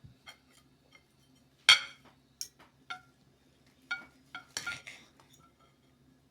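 Cutlery and dishes clinking during a meal: about six sharp, ringing clinks, the loudest a little under two seconds in, over a faint steady hum.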